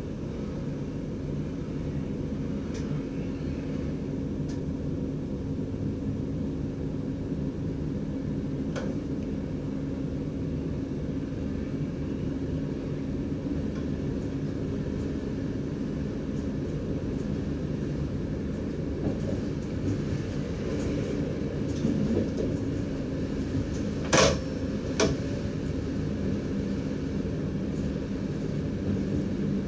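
Running noise of an NS DDZ double-deck electric train heard in the driver's cab: steady wheel-and-track rumble with a low, even hum. Two sharp clicks about a second apart near the end.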